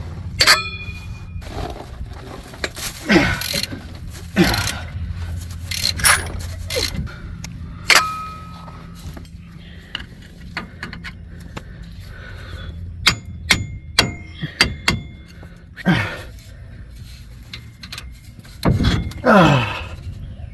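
Metal hand tools clinking, tapping and scraping on metal, with short ringing dings and a few squeaks that drop in pitch, during work on a 68RFE transmission's extension housing. A steady low hum runs under the first several seconds.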